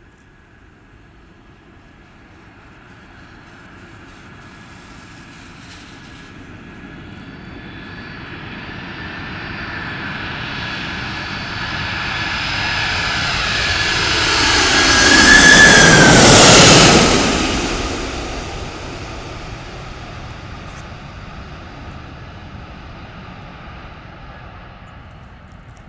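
Lockheed C-5M Super Galaxy's four turbofan jet engines as the aircraft passes low overhead. The sound builds slowly to a loud peak about sixteen seconds in, where a high whine drops in pitch, then fades away.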